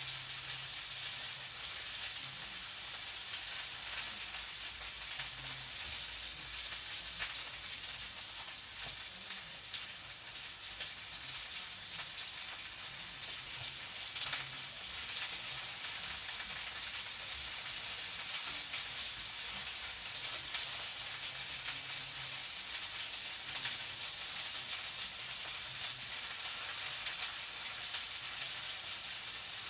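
Food frying in a pan, giving a steady sizzle with many fine crackles.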